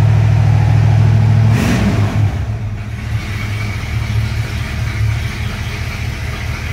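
1966 Ford Mustang Fastback's 289 four-barrel V8 idling, heard from inside the cabin, still not warmed up after a cold start. About a second and a half in, its steady drone drops off with a brief hiss and it settles to a quieter, less even idle.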